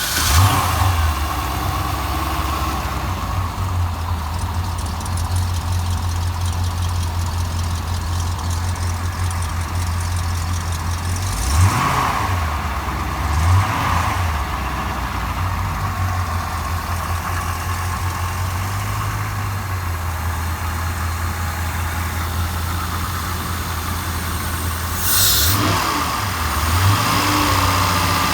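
MerCruiser 7.4 MPI 454 big-block V8 marine engine idling steadily. It is blipped briefly twice a little before halfway, and again a couple of times near the end.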